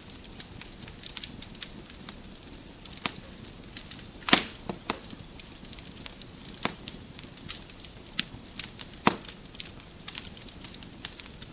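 Wood fire crackling: irregular sharp pops and snaps from burning logs over a low, steady hiss, with a loud pop about four seconds in and another a little after nine seconds.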